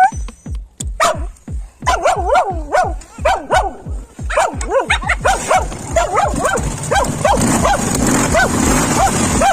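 A dog barking repeatedly, two to three barks a second. A steadier low noise builds up under the barks from about halfway through.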